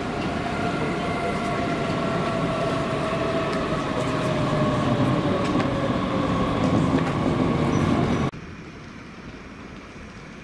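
Electric train running on the station tracks, with a whine that falls slowly in pitch over several seconds. The sound cuts off abruptly about eight seconds in, leaving a much quieter background hiss.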